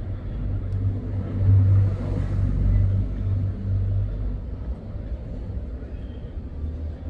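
Low, uneven rumble of wind buffeting the microphone, strongest from about one to four seconds in.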